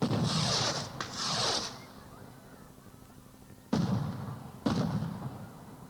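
Sound effects off a novelty tape: two loud hissing bursts of about a second each, then two sharp bangs about a second apart, each dying away.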